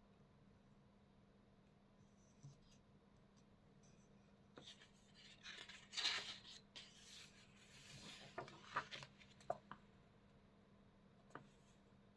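Faint scratching and rubbing on paper, with a few light taps, from about four and a half to ten seconds in, and one more tap near the end.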